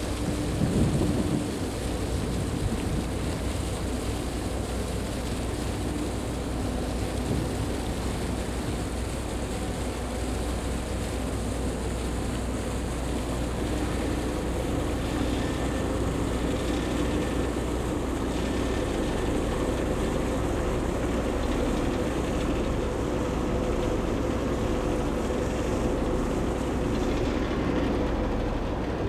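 The high-speed passenger ship Sun Liner 2 under way, heard on board: a steady engine drone with low hum tones over a wash of noise. A brief louder noise comes right at the start.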